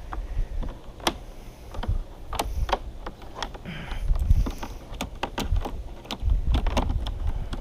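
Irregular sharp clicks and knocks of stiff plastic tubing and fittings being pushed and worked into place in a watermaker membrane unit's case, over a low rumble.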